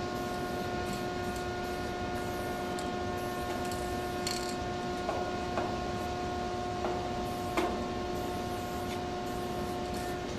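A steady pitched hum with scattered faint clicks and knocks, and one short hiss about four seconds in.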